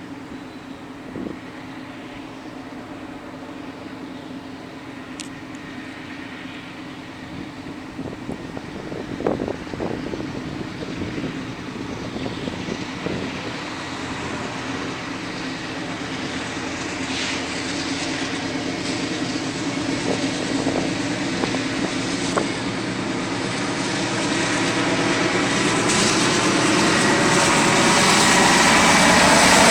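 GE Dash 9 diesel-electric freight locomotive approaching, its engine hum growing steadily louder.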